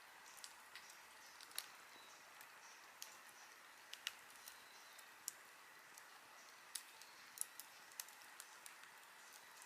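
Wood fire crackling: irregular sharp pops and snaps, a handful louder than the rest, over a faint steady hiss.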